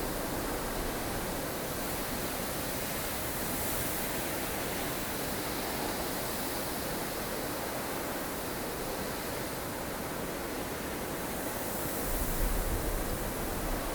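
Strong wind of a blustery snowstorm: a steady rushing hiss, with a gust adding a low rumble about twelve seconds in.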